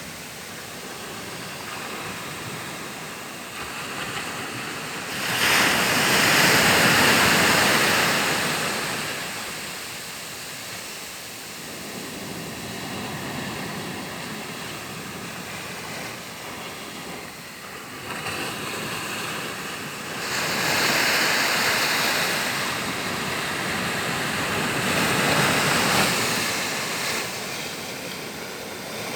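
Waves washing in, a steady rush that swells loudly twice, about five seconds in and again about twenty seconds in.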